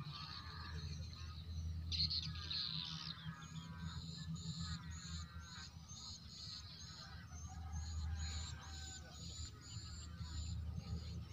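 Birds calling in marshland: a short high note repeats about twice a second, with trilling calls, over a steady low rumble of wind.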